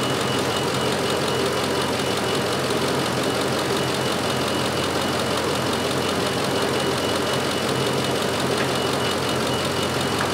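2006 Ford F350's gasoline engine idling steadily, heard close up in the engine bay with the fan belt running.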